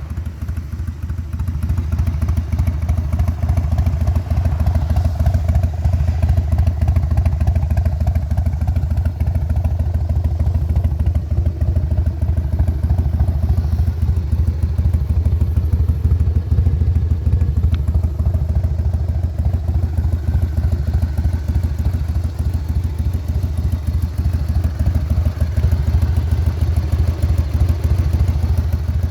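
1999 Harley-Davidson Heritage Softail Classic's V-twin running steadily through a Hooker 2-into-1 header that is almost fully baffled. It has a low, even exhaust note.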